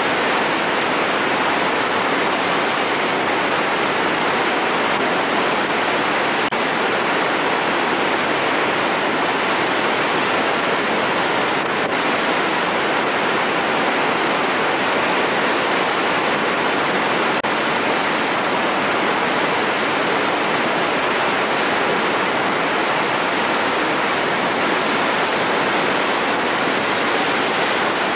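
Rushing water of Mena Creek after the flood: a loud, steady, unbroken rush like a waterfall.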